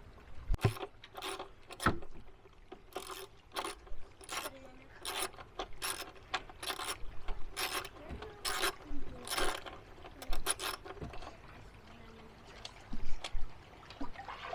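Hand ratchet with a socket clicking in a string of short, irregular strokes, working loose the bolts that hold the recoil pull starter on a generator.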